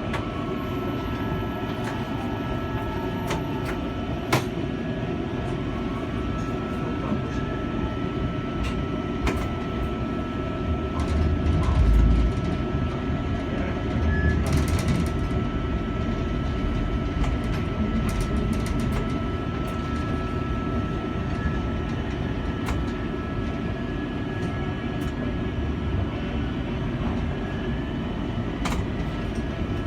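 Streetcar running on its rails, heard from inside the car: a steady rumble of the wheels with a thin, steady motor whine and scattered sharp clicks. A heavier thump comes about twelve seconds in.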